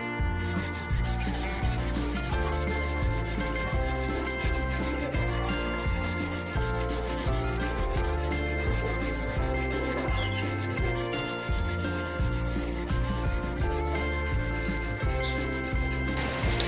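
Abrasive sanding and polishing of a chisel's steel, a fast, continuous run of scratchy rubbing strokes, over background music. The scratching gives way to a smoother hiss about a second before the end.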